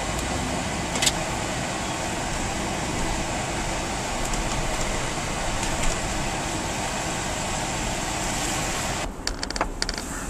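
Steady road and engine noise of a car being driven, dropping away suddenly about nine seconds in, followed by a few clicks.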